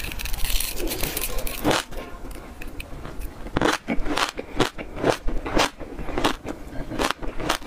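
Close-miked biting and chewing of a seed-coated piece of passion fruit: a dense crackly bite at the start, then a long run of sharp, irregular crunches as the seeds are chewed.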